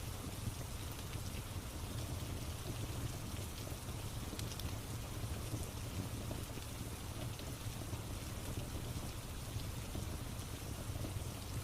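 Steady rain with a low rumble underneath and scattered small crackles from a fireplace.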